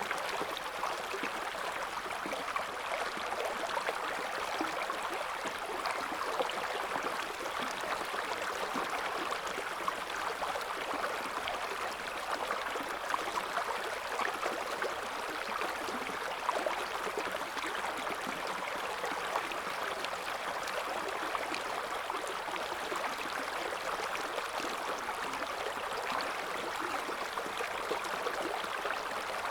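River water flowing over stones, a steady babbling and gurgling current with small splashes flickering through it.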